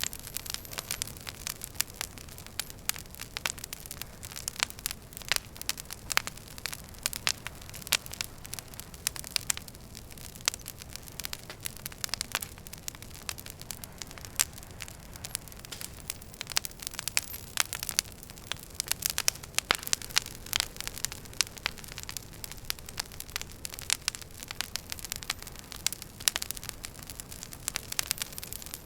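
Wood fire crackling in a fireplace: dense, irregular pops and snaps over a steady low hiss.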